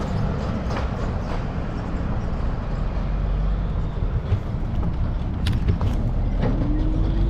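Street traffic with low wind rumble on the microphone during a bike ride, with scattered clicks and a short rising tone near the end.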